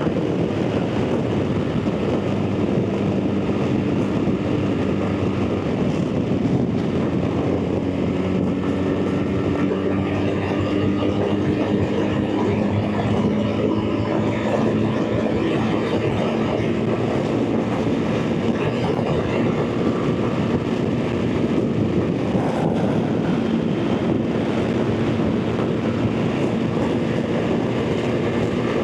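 BMW R 1300 GS Adventure's boxer-twin engine running steadily at motorway cruising speed, heard through a rush of wind and road noise.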